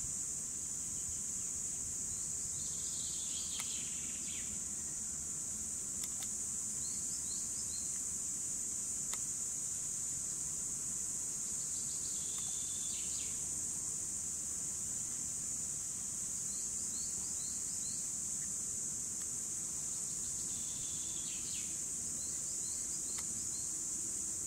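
Cicadas singing in a continuous high, steady buzz. Short runs of quick bird chirps break in every few seconds.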